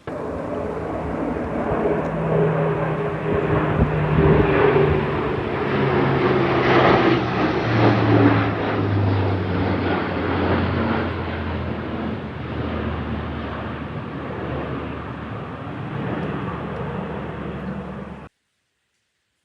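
Low-flying military jet passing, its engine noise swelling and then easing, with the engine tone falling steadily in pitch as it goes by. The sound cuts off suddenly near the end.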